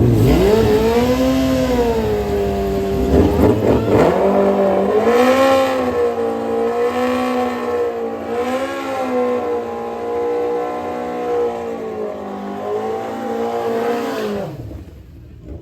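Drag-racing engines at full throttle down the strip. The engine note climbs and dips repeatedly as the gears change, then falls in pitch and fades away near the end.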